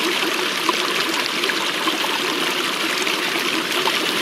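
Water running steadily, with a fine trickling texture and no break.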